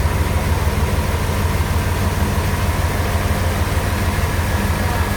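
Sawmill bandsaw machinery running steadily, an even low hum with no change in pitch or level.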